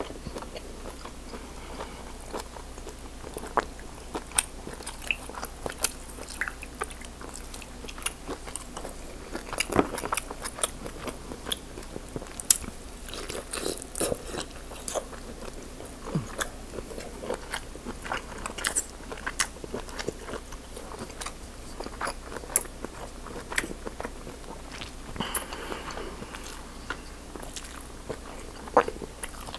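Close-miked chewing and biting of lobster tail meat: wet mouth smacks and many sharp, irregular clicks, with no talking.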